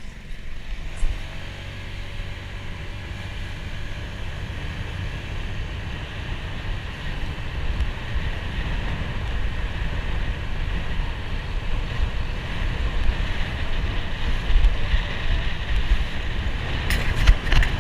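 Wind rushing over the microphone of a motorcycle-mounted action camera, with the motorcycle's engine rumbling underneath; the rush grows gradually louder.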